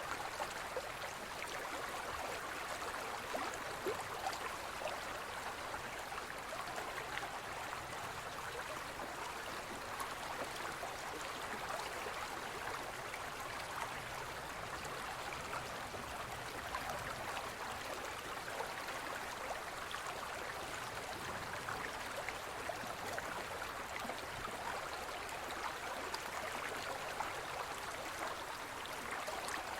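Gentle forest stream flowing: a steady rush of water with small trickles and splashes running through it.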